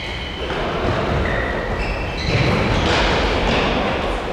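Echoing din of an indoor mini-football game in a sports hall, with several short high squeaks. It grows louder about two seconds in.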